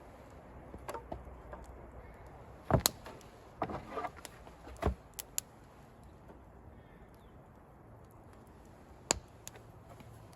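Wooden boards being laid onto a stack: irregular sharp wooden knocks and clatters, the loudest about three seconds in, a quick cluster just after, and a last single knock near the end.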